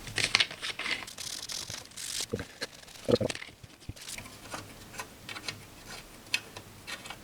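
Rubbing and scrubbing with scattered small clicks and taps as the knobs and push-buttons of a Grundig tube console are cleaned by hand.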